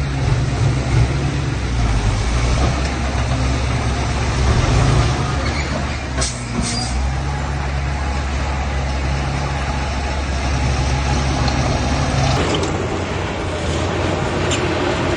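Heavy diesel machinery engine running with a steady low rumble, with two short high hisses about six seconds in; a little after twelve seconds the deep rumble drops away and a higher engine note takes over.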